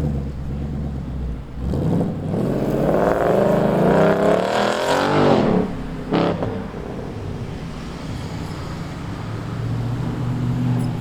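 Car engine accelerating, its pitch climbing steadily for about three seconds before falling away, followed by one sharp knock. After that a steady low engine hum carries on.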